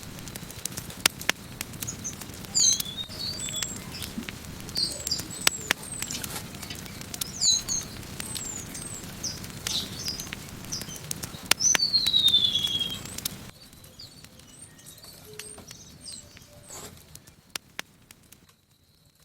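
Wood campfire crackling and popping, with small birds chirping over it and one long falling whistled call. About two-thirds of the way through, the fire noise drops away abruptly, leaving a few faint pops that fade toward silence.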